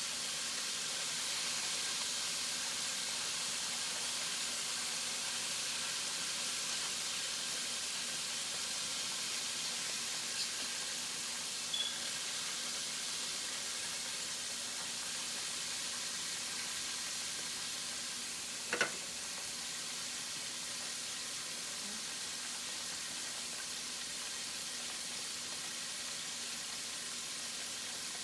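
Chicken wings frying in a pan of hot oil, a steady sizzle, with a single sharp pop about two-thirds of the way through.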